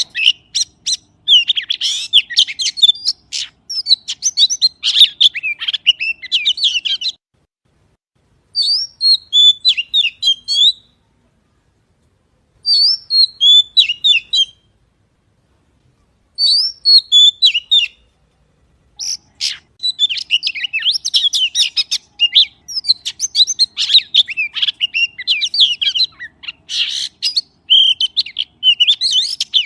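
Magpie singing: rapid runs of high whistled and chirping notes in phrases a few seconds long, with silent pauses of one to two seconds between phrases in the middle.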